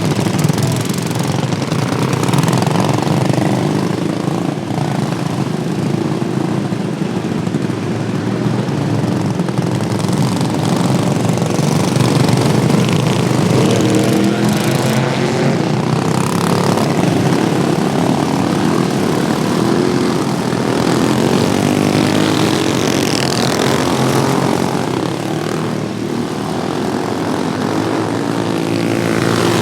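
Small engines of several modified racing lawnmowers running hard around a track. Their pitches rise and fall as they rev and pass.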